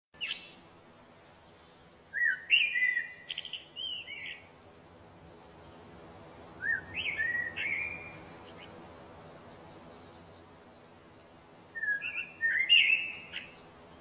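Birdsong: a songbird singing short phrases of quick, high chirping notes, three phrases about five seconds apart, after a single brief chirp at the start.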